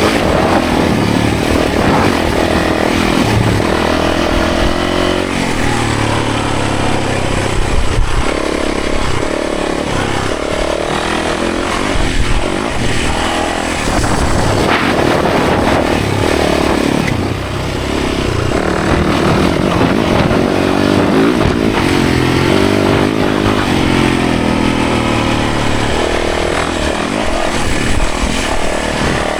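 Yamaha 450 dirt bike's four-stroke single-cylinder engine running hard, its revs rising and falling with the throttle.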